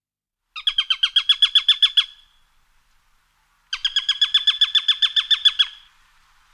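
A bird calling in two rapid trills of evenly repeated sharp notes, about ten a second, the first about a second and a half long and the second about two seconds, with a short pause between.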